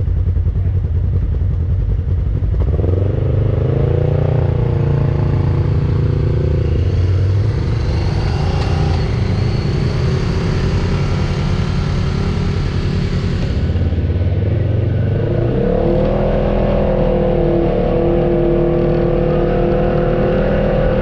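Off-road vehicle engine running under load on a trail, revving up about two and a half seconds in and again near fifteen seconds in, then holding steady each time.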